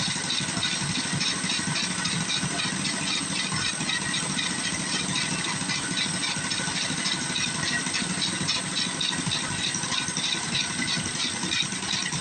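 Mini bike's small gas engine idling steadily with a rattle, just after being started; the owner thinks its idle is set too low.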